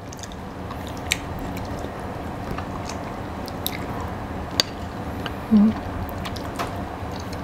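Close-miked chewing and wet mouth sounds of people eating, with a few sharp clicks of metal spoons against glass bowls and a brief hum a little past halfway.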